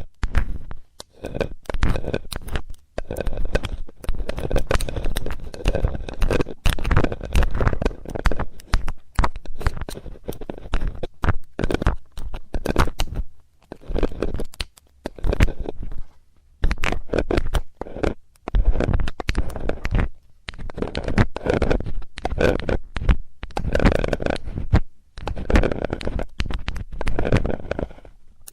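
Close-up ASMR ear-cleaning sounds: a metal tool scraping and rubbing against a microphone's ear, in irregular bursts of scratchy noise and clicks with short pauses.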